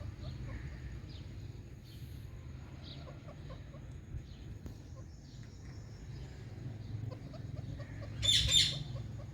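A parrot gives one loud, shrill double screech near the end, over faint scattered chirps and a low steady hum.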